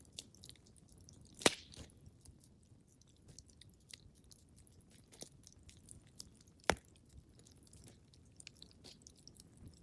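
Wood fire crackling in a fireplace: a scatter of small crackles with two sharp, louder pops several seconds apart.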